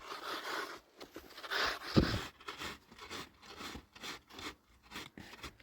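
Repeated rough scraping strokes, about two a second, with a single heavier thump about two seconds in.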